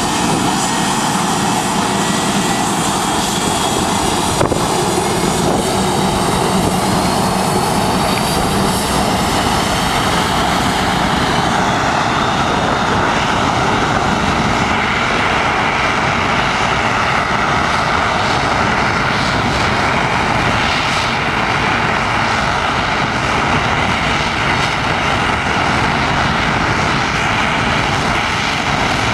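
Jet aircraft engines at takeoff power, a steady loud roar of jet blast. A whine rises in pitch over roughly the first ten seconds, then the roar carries on evenly.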